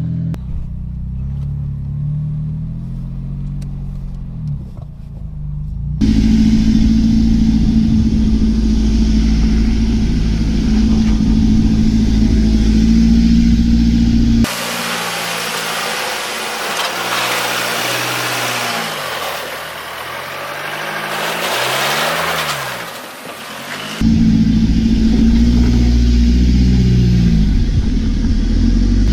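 Pickup truck engines revving up and down under load on an off-road trail, in several cut-together clips. Through the middle stretch a loud hiss lies over the engine.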